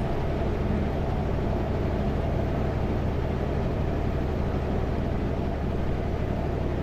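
Kenworth W900L semi truck's diesel engine droning steadily at cruise, with tyre and road noise, heard from inside the cab.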